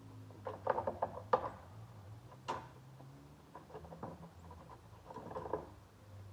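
Irregular clusters of small clicks, scrapes and rattles of gear being handled during cleanup, with one sharper click about two and a half seconds in, over a low steady hum.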